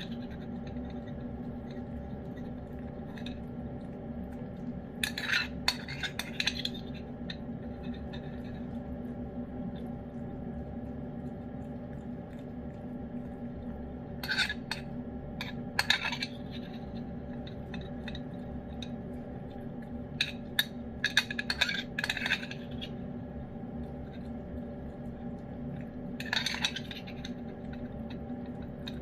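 Cats eating wet food from their dishes: short clusters of clicks and clinks against the dishes every few seconds, over a steady low hum.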